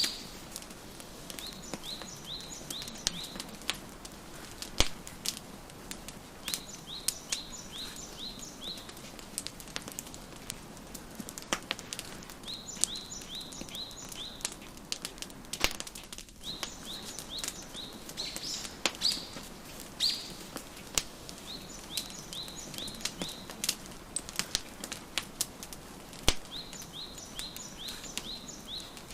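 Wood fire crackling with scattered sharp pops over a soft steady hiss, while a songbird repeats a short phrase of four or five quick high chirps every few seconds.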